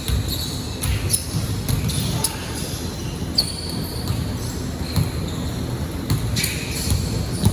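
Basketball game play: a ball bouncing on a hard court in repeated thuds, with a few short, high squeaks.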